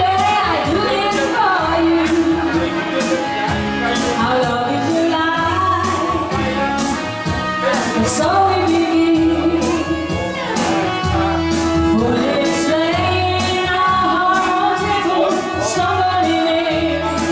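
A woman singing a pop-rock song over band accompaniment with a steady drum beat and bass.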